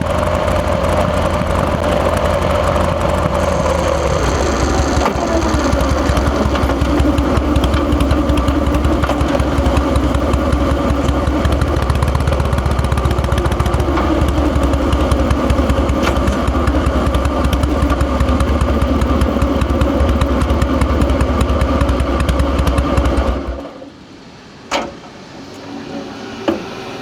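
Harley-Davidson Fat Boy's Twin Cam 88 V-twin engine running with a deep, steady rumble, its pitch falling a few seconds in, then stopping abruptly near the end. Two sharp clicks follow after it stops.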